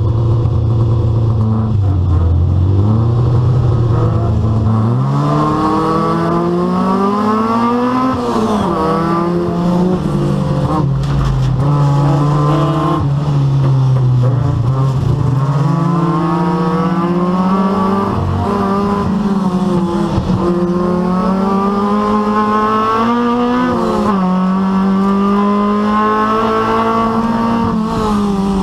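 Rally car engine running hard at racing speed. Its pitch climbs and drops repeatedly with gear changes and lifts off the throttle.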